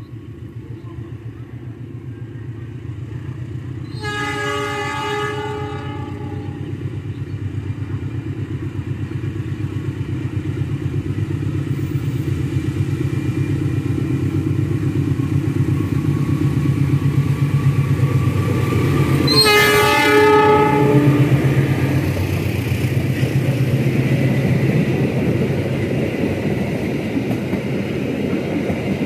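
KAI diesel-electric locomotive hauling a passenger train on approach, its engine rumble growing steadily louder, sounding a chord horn twice, each blast about two seconds long. The first blast comes a few seconds in, the second about two-thirds of the way through. Near the end the coaches roll past close by.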